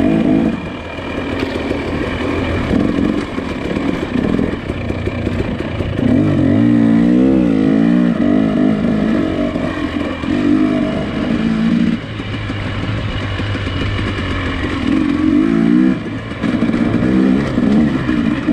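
Nissan Pathfinder SUV engine running and revving on a trail, its pitch rising and falling repeatedly.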